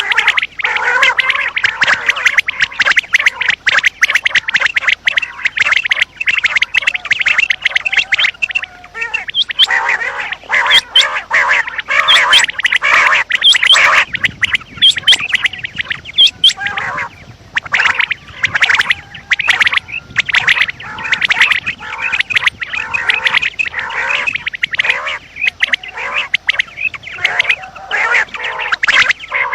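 Female common quail calls of the kind played as a hunting lure: a dense, continuous stream of short raspy notes, thinning briefly near the middle.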